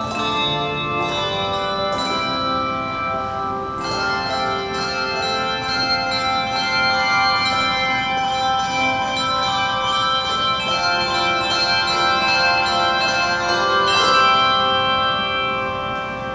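Handbell choir playing a tune: many tuned handbells struck in turn and together, each note ringing on. A full chord is struck near the end and fades away.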